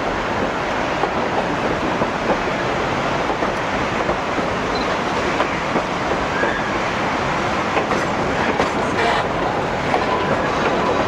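Narrow-gauge passenger train running along the track, heard from on board: a steady rumble and rattle of wheels on rail.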